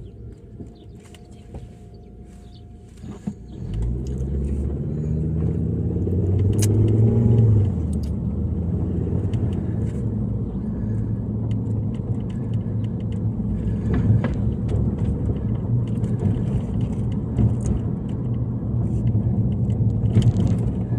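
A car pulls away about four seconds in, its engine pitch rising as it accelerates, then settles into a steady low driving rumble.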